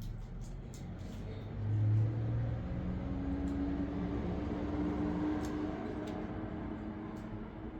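A motor vehicle engine running with a steady low hum, loudest about two seconds in, then settling into a steadier, higher tone.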